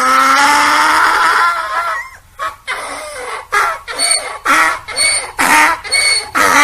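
Donkey braying: a long pitched call held for about two seconds, then the rhythmic hee-haw, about two strokes a second.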